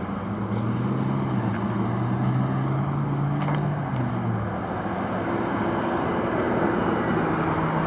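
Engine drone of passing motor vehicles, a steady low hum that fades about halfway through as another comes in, over a constant wash of traffic noise.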